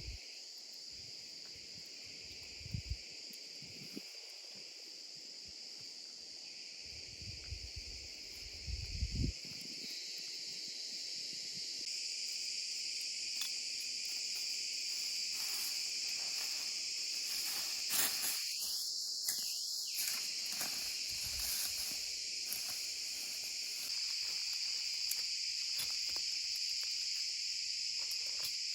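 Steady, high-pitched chorus of insects chirping, with a few low, muffled thumps in the first ten seconds. About two-thirds of the way through, a short two-note call rises and falls twice.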